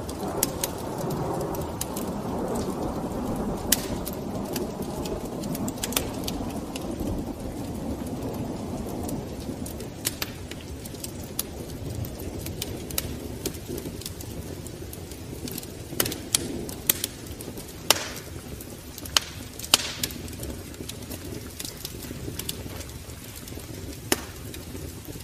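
Wood fire crackling in a fireplace: sharp, irregular pops and cracks over a steady low rushing hiss, with the pops coming more often and louder in the second half.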